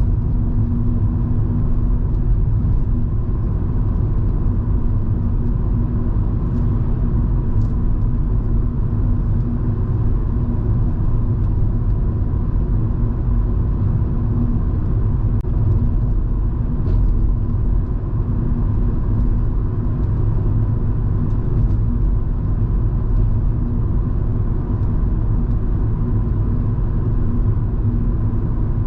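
Volvo V70 2.5T's turbocharged five-cylinder engine and tyre rumble heard from inside the cabin while cruising: a steady low rumble with an even drone, with no change in pace.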